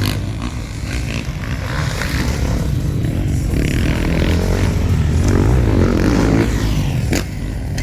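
Several motocross bikes racing, their engines revving up and down as they go round the track, with a sharp crack about seven seconds in.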